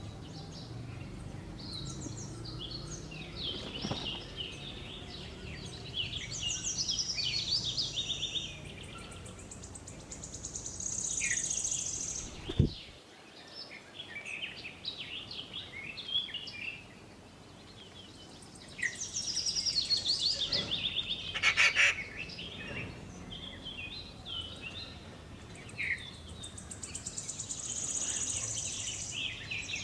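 Several birds calling and chirping, short high calls overlapping one another throughout. About halfway through there is one sharp click, after which the low background rumble drops away.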